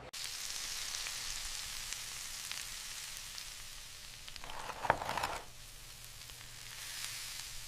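Food sizzling: a steady hiss, with a brief louder sound about five seconds in.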